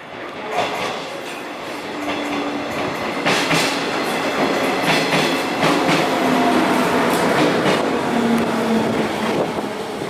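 JR East 719 series electric train (Fruitea Fukushima) pulling into the platform and passing close at low speed, its wheels clicking over rail joints under a running rumble. A faint hum falls in pitch as the train slows.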